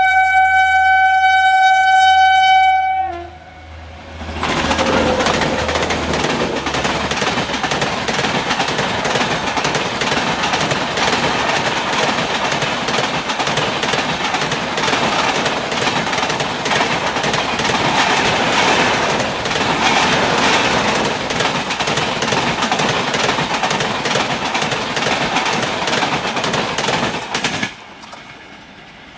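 WAP-7 electric locomotive sounding one long, steady horn blast. Then the train's LHB coaches rush past at speed, their wheels clattering over the rail joints. The noise cuts off sharply near the end.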